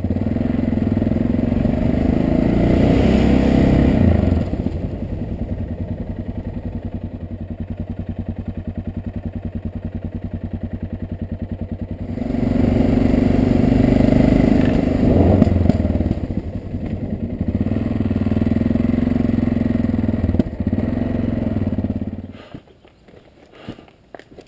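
Yamaha XT660Z Ténéré's single-cylinder engine running under way, louder at first and again in a long stretch through the middle, with a quieter stretch between. It then stops suddenly near the end, leaving a few faint clicks.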